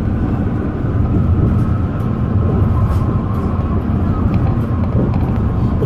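Alishan Forest Railway train running, heard on board: a steady low rumble of the carriage on the track, with a few faint clicks.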